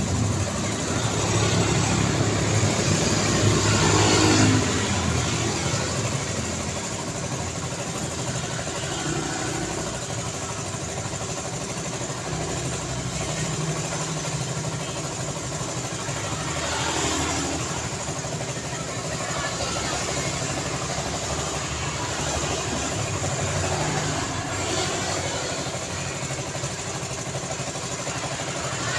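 Road traffic: a continuous wash of engine and tyre noise with a low engine hum. A loud vehicle passes in the first few seconds, and more vehicles swell past around the middle and again later.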